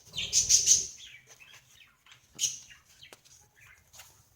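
A pet bird chirping and calling in the background: a loud cluster of sharp, high calls in the first second, another about two and a half seconds in, and softer chirps between. A low rumble runs under the first cluster.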